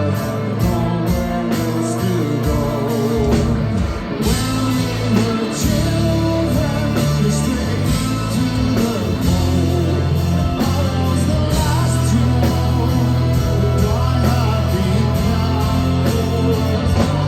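Live rock band playing: electric guitars, bass and drums with a held low bass line, and singing over it, recorded from the audience. The band thickens and brightens about four seconds in.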